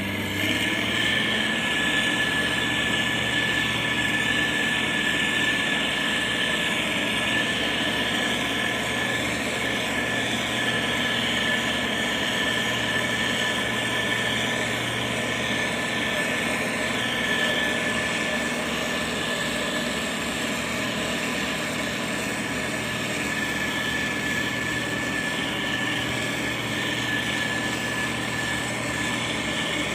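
Motor grader's diesel engine running steadily under load, with a steady high whine over the engine.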